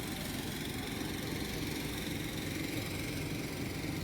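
A steady motor rumble, like an engine idling.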